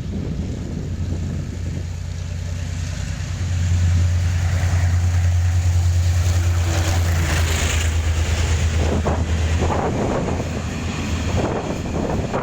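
Freight train passing at speed: the locomotive's loud, steady low hum swells about a third of the way in and fades after about ten seconds, then the wagons' wheels clatter over the rail joints near the end. Wind buffets the microphone.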